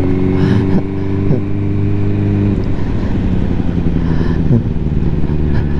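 Ducati motorcycle engine running at a steady road speed under wind rush; about two and a half seconds in, the engine note drops and thins as the throttle eases off.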